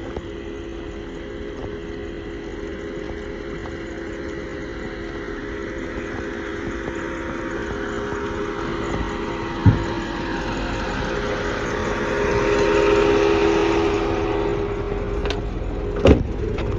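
A motor vehicle's engine running steadily, with a swell of engine and road noise that builds to a peak about two-thirds of the way through, then eases. Two sharp thumps, one about ten seconds in and one near the end.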